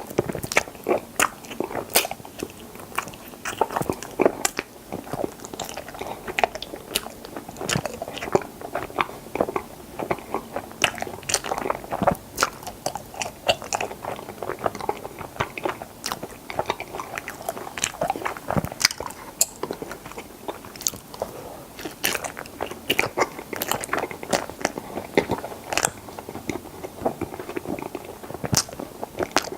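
Close-miked biting and chewing of strawberry mochi ice cream, with dense, irregular wet mouth clicks and smacks throughout.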